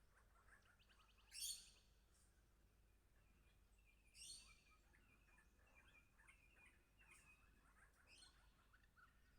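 Faint birdsong from birds at a seed feeder: three short calls, about a second and a half in, at about four seconds and again near eight seconds, with soft high chirping between them.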